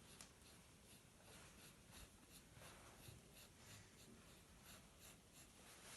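Faint scratching of a pencil on paper, in a quick run of short strokes, as a wing outline is drawn.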